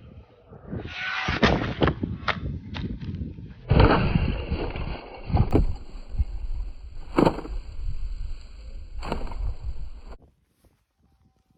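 HBX 2997A 1/12-scale brushless RC truck running on a 3S LiPo through rough grass: a steady high whine from the brushless motor, with noise from the tyres and grass and several sharp knocks, cutting off about ten seconds in.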